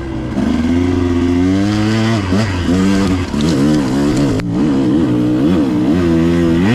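KTM 125 XC two-stroke dirt bike engine revving up and down over and over as the throttle is worked, the rises and falls coming quickly in the second half. A single sharp knock about four and a half seconds in.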